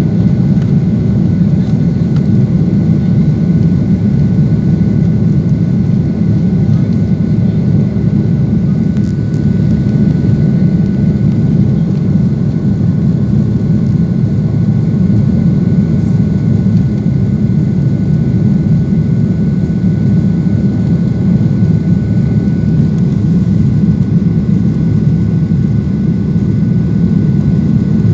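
Boeing 737-800's CFM56 jet engines at high thrust, heard from inside the passenger cabin: a steady, loud, deep roar with two faint steady whines above it.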